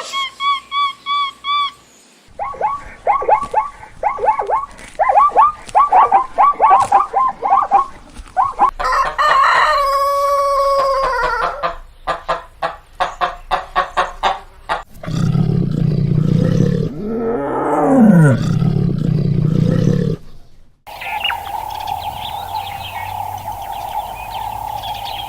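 Several different animal calls in turn, among them chicken clucking and a long crow like a rooster's. Near the end comes a low noisy stretch with a sweeping whine, then a steady tone.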